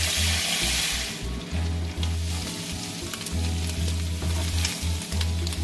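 Boiled octopus pieces hitting hot oil in a frying pan: a loud burst of sizzling that eases after about a second and a half into a steady sizzle as they fry. Background music with a pulsing bass runs underneath.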